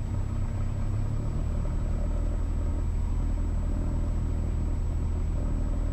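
Cessna 172's engine running at low power, a steady low rumble with a faint, thin high whine above it.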